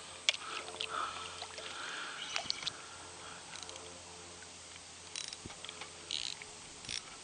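Scattered light clicks and knocks over a faint wash of water around a kayak while a hooked fish is being played.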